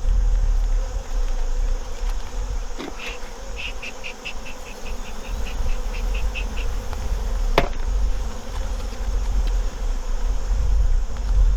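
Honey bees humming steadily around an open hive. A quick run of about fifteen short high chirps, roughly four or five a second, lasts a few seconds, and one sharp knock comes about two thirds of the way through.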